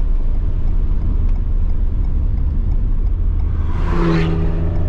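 In-cabin drone of an Alpine A110S's mid-mounted turbocharged 1.8-litre four-cylinder and its road noise, running steadily at low revs (about 2,400–2,500 rpm) at slow cool-down speed. About four seconds in there is a brief louder rush as another car draws close alongside.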